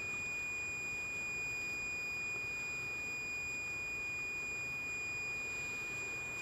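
Digital multimeter's continuity buzzer sounding one steady, unbroken high beep: the probes show a closed circuit through the repaired hair dryer power cord wire.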